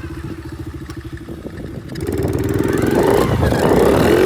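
Honda XR70 pit bike's small four-stroke single running at low throttle, then revving up hard about halfway through as the throttle is opened for a wheelie.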